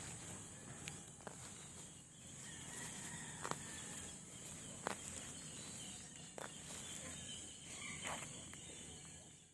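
A steady high-pitched insect chorus, crickets or cicadas, with scattered sharp clicks and snaps over it; the sound cuts off suddenly at the end.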